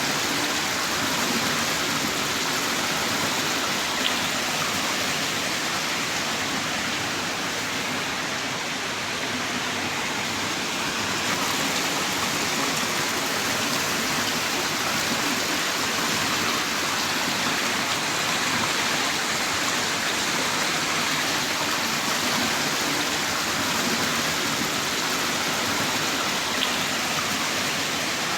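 Heavy rain downpour: a steady, dense hiss of rainfall, with a single sharper drop tick twice.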